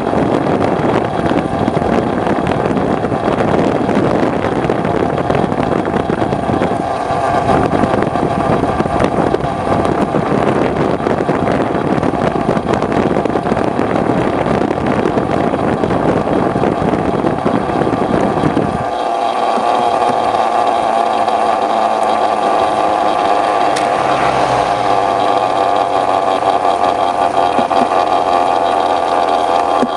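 Aprilia RS125's two-stroke single-cylinder engine running, heard under heavy wind rumble on the microphone. About two-thirds of the way through, the wind rumble drops away sharply, leaving the engine's steady note.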